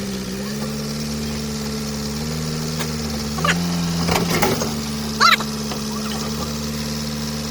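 Car engine idling steadily, its idle note stepping up slightly about three and a half seconds in.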